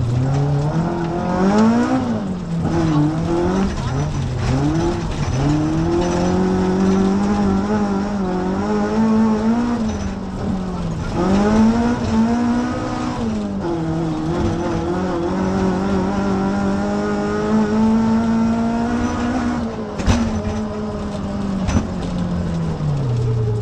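Toyota AE86 Corolla's 20-valve 4A-GE four-cylinder engine heard from inside the cabin under hard driving, its pitch climbing and dropping again and again through gear changes and lifts, then falling away as the car slows near the end. A couple of sharp knocks come through near the end.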